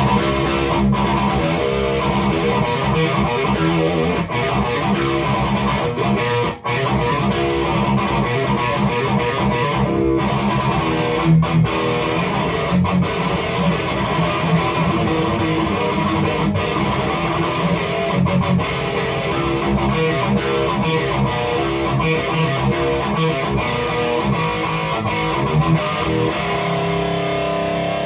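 Distorted electric guitar playing riffs through a REVV G3 distortion pedal set to its lower-gain mode, a tight, snappy metal tone. The playing runs without stopping except for a couple of short breaks.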